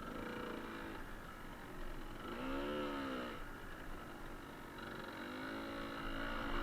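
Suzuki TS125R's two-stroke single-cylinder engine running under way, its pitch rising and falling twice as the throttle is opened and closed.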